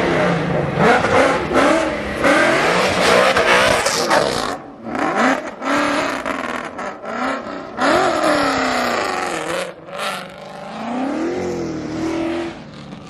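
Mustang engines revving hard at a burnout meet, their pitch repeatedly rising and falling over a dense hiss, with a few abrupt cuts.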